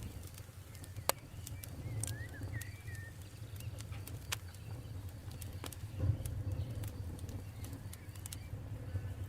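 Campfire crackling, with sharp scattered pops over a low steady rumble, the loudest pop about a second in. Birds call in the background, with a few short chirps about two to three seconds in.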